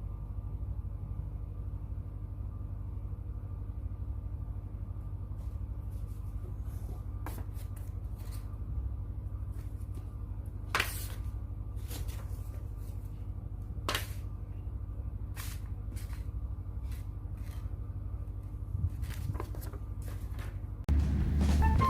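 A sheet of paper being handled and creased: scattered crisp crackles over a steady low hum. Music starts just before the end.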